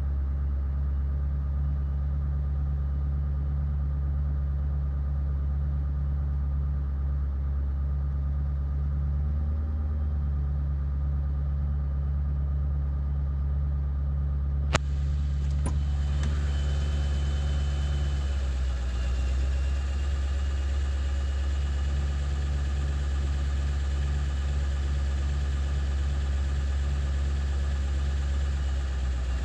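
Ford 7.3 Powerstroke turbo-diesel V8 idling roughly, still running poorly after its ICP (injection control pressure) sensor was replaced. A sharp click comes about halfway through, after which the sound turns brighter with a faint steady high whine.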